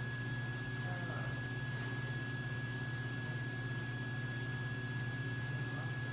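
Steady electrical hum with a constant high-pitched whine over it, and a few faint small clicks.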